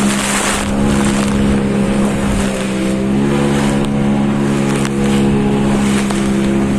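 Engine running steadily at a constant pitch, dipping slightly about halfway through, over a rushing hiss of wind or water.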